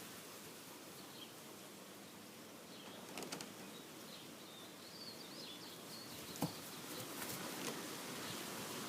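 Faint steady background hiss with a few faint high chirps and scattered soft clicks.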